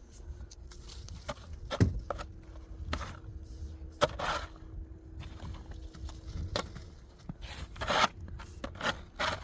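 A series of sharp scrapes and knocks, about five over several seconds, some drawn out into a short rasping scrape.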